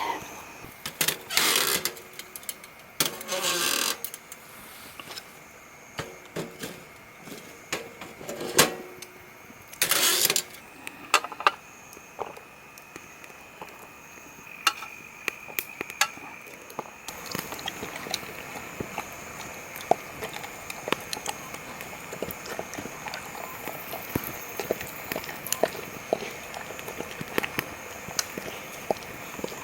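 Wood campfire crackling with many sharp pops, over a steady high chirping of insects. There are several loud rustling, handling noises in the first half.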